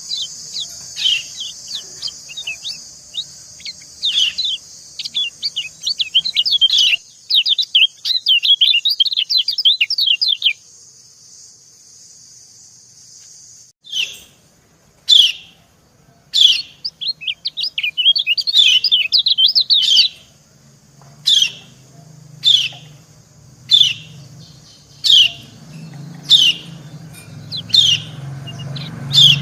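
White-eye (kecial) 'ciak' calls, the female's calls answering a male: sharp, short, falling chirps, sometimes single and sometimes in fast twittering runs, with a pause of about three seconds in the middle and single chirps about once a second near the end, over a faint steady hiss.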